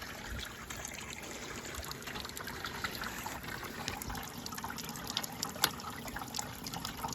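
Water trickling steadily through a chicken plucker's built-in watering system, with a few light clicks and knocks, the sharpest about halfway through.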